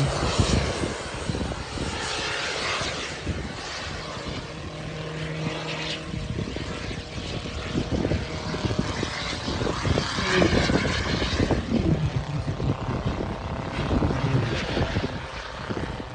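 Radio-controlled model airplane engine heard in flight overhead, with its pitch arching up and back down about ten seconds in as it passes.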